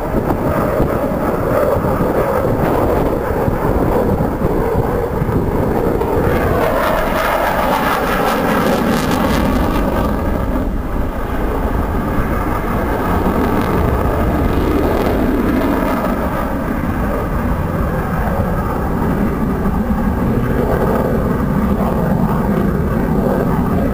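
Aircraft engine noise from a fixed-wing aircraft flying past, loud and continuous, with the pitch falling as it passes between about six and ten seconds in.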